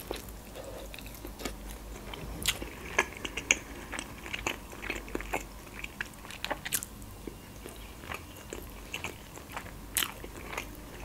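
Close-miked chewing of a mouthful of stuffed cabbage roll (golubtsy): soft wet smacks and mouth clicks scattered throughout, with a few sharper ticks standing out.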